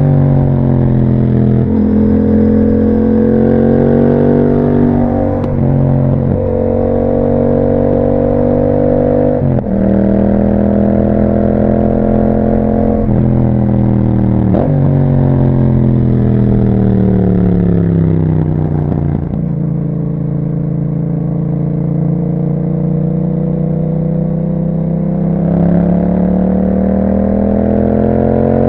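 Yamaha MT-07 parallel-twin engine through an Akrapovic exhaust, pulling hard with the pitch climbing and breaking off at several quick upshifts in the first fifteen seconds. It then rolls off, the pitch sliding down to a low steady run, and rises again near the end as the throttle opens.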